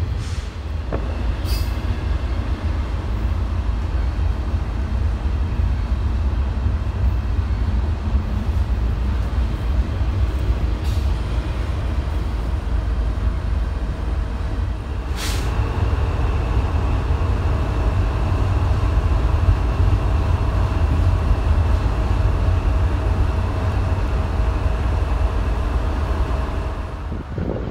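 Freight train of autorack cars rolling past close by: a steady low rumble of wheels on rail, with a couple of sharp clicks. About halfway through, a steady high-pitched squeal joins it.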